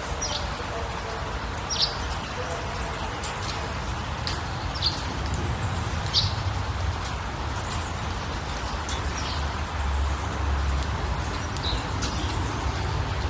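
Small birds giving short, high, downward-sliding chirps every second or two over a steady rushing background noise with a low rumble.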